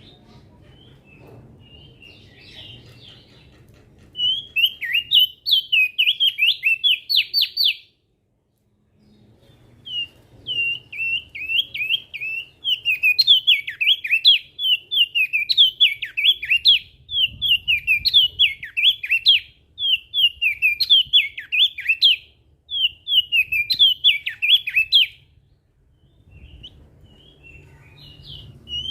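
Crested dark-eye (opior jambul) singing a fast, chattering song of sharp notes that sweep up and down. A few faint notes come first, then loud runs of song break off briefly about eight seconds in and go on until near the end.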